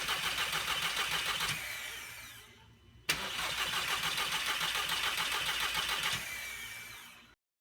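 MkV Volkswagen GLI's 2.0-litre turbo four-cylinder being cranked by the starter in two attempts of about three seconds each, turning over in an even rhythm without catching, the starter spinning down after each. A no-start, even with a new fuel pump module fitted.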